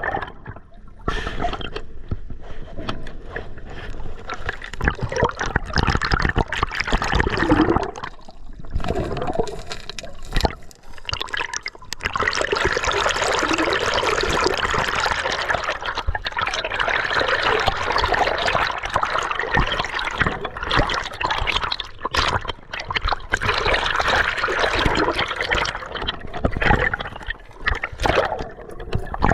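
River water gurgling and splashing close by, its rush coming and going irregularly and then running more steadily through the second half.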